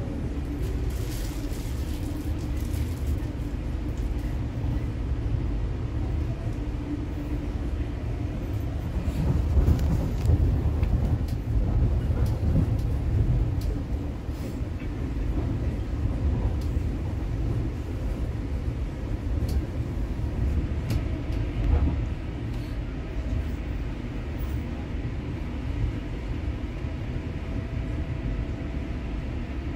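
Interior of a moving Comeng-built V set double-deck intercity carriage: a steady low rumble of the train running on the track, with scattered clicks and knocks. It grows louder for a few seconds about a third of the way in, and a faint steady whine comes in during the last third.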